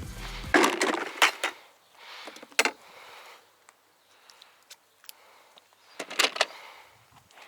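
A few sharp knocks and clatters, the loudest two close together about a second in, another a little later and a short cluster near the end, with soft rustling between them.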